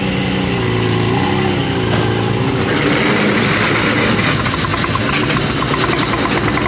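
Car engine idling: a steady hum at first, turning about two and a half seconds in to a rougher, rapidly pulsing idle.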